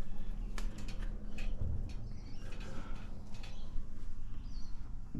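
A few light knocks and handling noises from a window pane being set in place, over a low steady hum.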